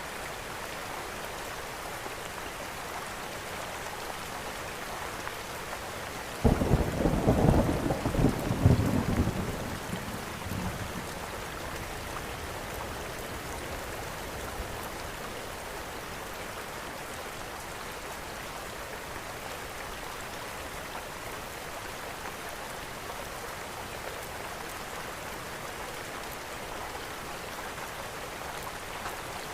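Steady rain, with a sudden clap of thunder about six seconds in that rumbles for a few seconds and fades away.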